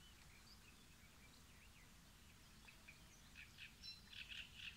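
Near silence with faint birds chirping, the chirps coming thicker and a little louder in the last second and a half.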